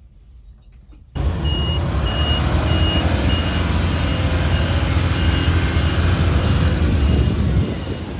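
Yard truck engine running with a heavy low rumble while its reversing alarm beeps about twice a second, a sign the truck is backing up. The sound comes in abruptly about a second in and eases a little near the end.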